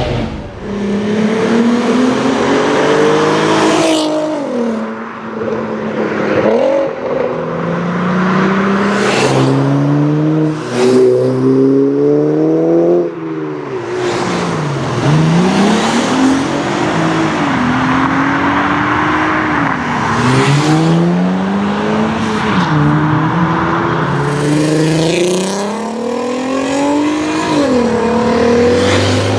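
Volkswagen performance cars (Golf GTI, Golf R32, Passat R36) revving and accelerating hard, one after another. The engine note climbs steeply in pitch, drops back and climbs again, over and over.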